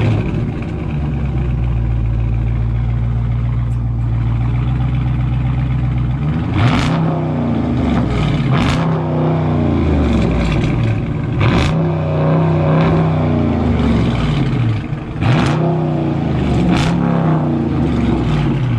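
2019 Dodge Charger Scat Pack's 392 Hemi V8 exhaust with a mid-muffler delete, starting up and idling steadily for about six seconds. It is then revved about six times, the pitch rising and falling with each rev.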